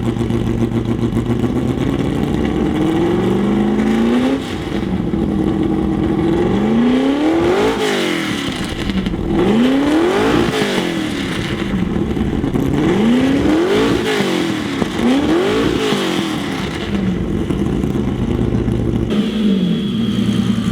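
Ferrari Testarossa's flat-twelve engine idling, then revved in several quick throttle blips that rise and fall in pitch, before settling back to idle.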